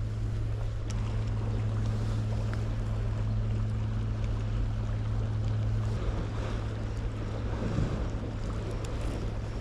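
Steady low engine hum with wind noise on the microphone; the hum drops in level about six seconds in.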